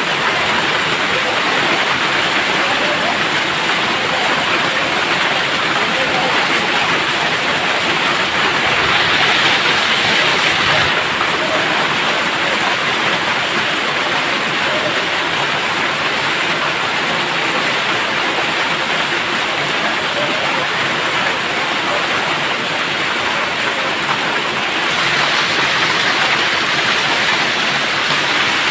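Heavy rain pouring down steadily, a dense, even hiss that grows briefly heavier about a third of the way in and again near the end.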